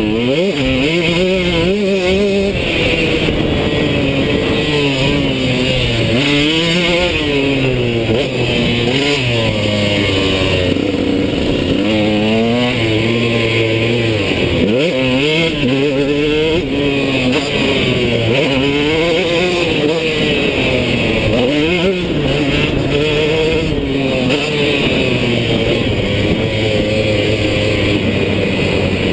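KTM two-stroke motocross bike's engine revving hard and falling off again and again, its pitch climbing and dropping every second or two as it is ridden around a track.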